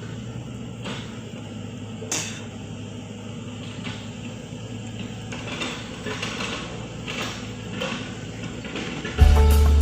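Steady low hum of a running machine, with scattered knocks and clanks and some scraping from about five seconds in. Loud music starts abruptly near the end.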